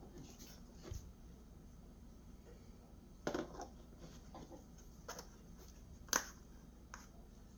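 A few light, separate clicks and knocks, about five in all, of small objects being handled, over faint room tone.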